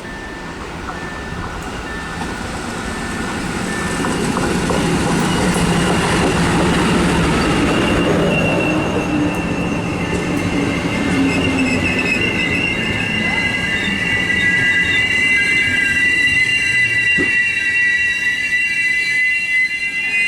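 An SU42 diesel locomotive hauling passenger carriages rolls in and brakes to a stop. The rumble builds over the first few seconds, and from about eight seconds in the wheels and brakes give a high, steady squeal that grows and cuts off as the train halts.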